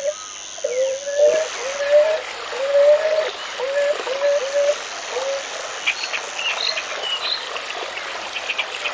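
Outdoor nature sound track: a series of short rising calls, repeated about twice a second for the first five seconds, over a steady high insect buzz, with quick high chirps joining in the second half.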